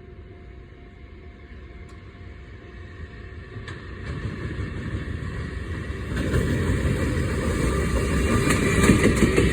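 Freight train hauled by a JR Freight EF210 electric locomotive approaching at speed, its rumble growing steadily louder. Near the end the wheels start clacking over the rail joints.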